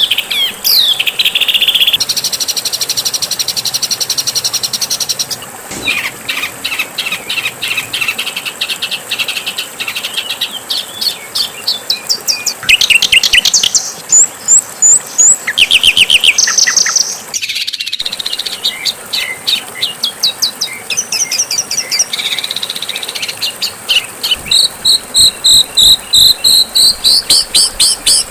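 Songbird calls and songs spliced together as a masteran, a bird-song training recording: fast repeated high chips and trills that switch abruptly to a different bird every few seconds, with a brief break shortly after the middle.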